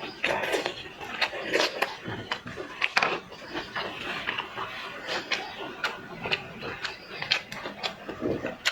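Close-miked eating of seafood: wet chewing and lip smacking, with irregular sharp mouth clicks.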